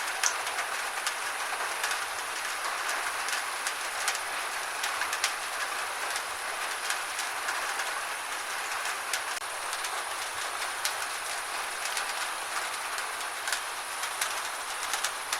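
Gentle rain falling: a steady hiss with scattered sharp drops.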